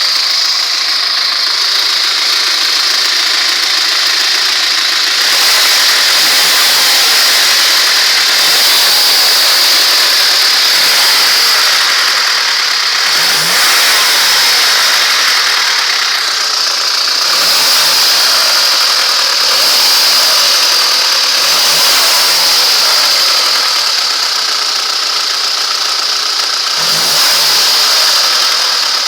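Carburetted ZMZ-406 inline-four engine running, blipped up and down in short revs about every second or two, with a steady high whine under it. It is being revved to bring out a suspicious dull knock in the engine.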